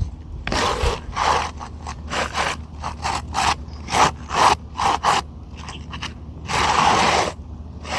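Asphalt shingle scraping against the gritty shingles around it as it is slid and pushed into place on the roof: a run of short scrapes, then one longer scrape near the end.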